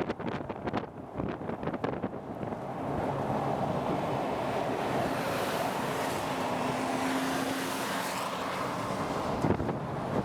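Strong wind buffeting the microphone near a tornado. It is gusty and choppy at first, then becomes a steady rush of air for several seconds, and turns choppy again near the end.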